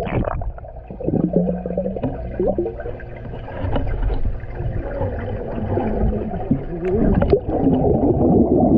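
Muffled gurgling and sloshing of water, dull and bass-heavy as when heard with the microphone at or under the water surface, with a few faint muffled cries.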